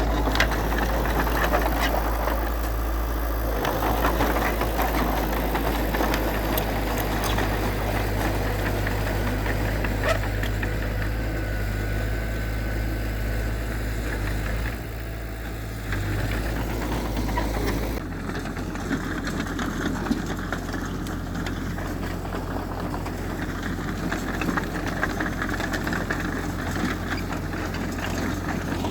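Heavy earthmoving machinery running: a steady diesel engine hum with scattered knocks and rattles. The engine sound changes abruptly about 18 seconds in.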